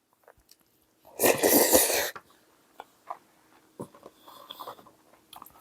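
A single loud, breathy, sneeze-like burst lasting about a second, followed by a few faint clicks.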